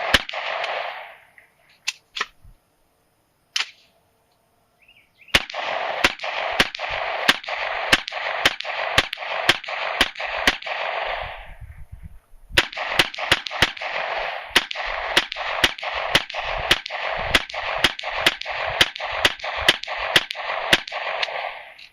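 Rapid gunfire from a 9mm Parabellum gun with a 10.5-inch upper, emptying a 30-round magazine. A few spaced shots come first, then two long strings of about three shots a second, with a short pause between them just past the middle.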